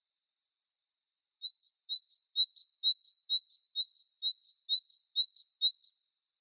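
A small songbird singing a rapid series of repeated two-note phrases, high then lower, about four to five notes a second. It starts about a second and a half in and stops shortly before the end.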